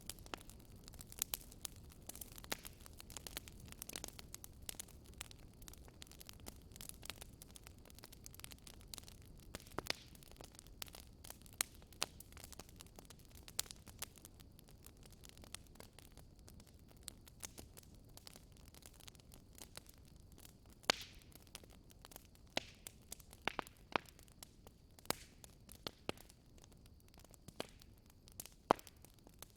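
Fireplace fire crackling: irregular sharp pops and snaps over a low steady rumble, with a few louder snaps in the second half.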